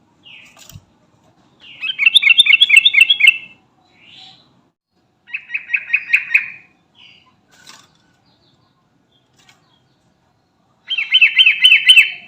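Sooty-headed bulbul singing: three bouts of rapid, repeated notes, each lasting over a second, with short single notes between them.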